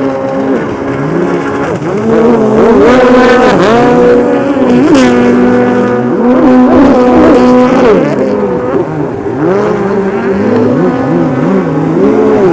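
Several racing stand-up jet skis running hard, their engines whining and sliding up and down in pitch as they throttle through the course and pass. Louder from about two seconds in.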